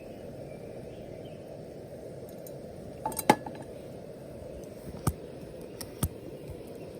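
A few sharp clinks and knocks of cooking utensils against cookware: a quick cluster about three seconds in, the loudest, then single knocks about two and three seconds later, over a steady low rush.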